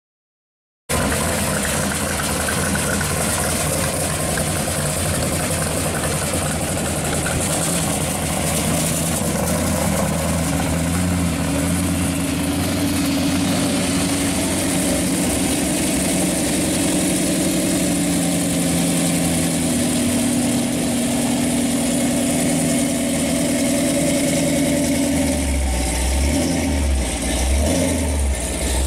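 Supercharged big-block Chevy V8 in a pro street car, running loudly at idle; in the last few seconds its low note pulses in an uneven, loping beat.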